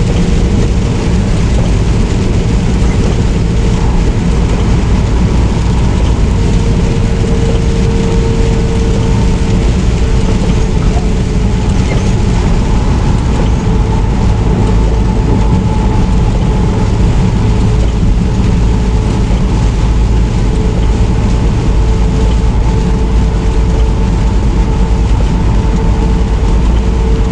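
Semi truck on the move: a steady engine and road rumble, with a faint steady whine running through it.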